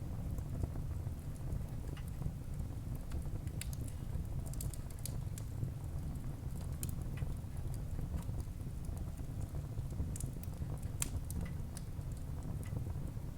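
Wood fire burning in a fireplace: a steady low rumble of flames with scattered sharp crackles and pops from the burning wood, in small clusters about four seconds in and again about ten seconds in.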